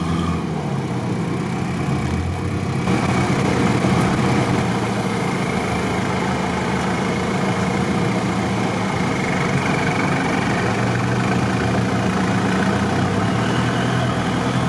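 Off-road 4x4's engine running steadily at low revs, heard from the vehicle. About three seconds in, a rougher, broader noise joins it and keeps on.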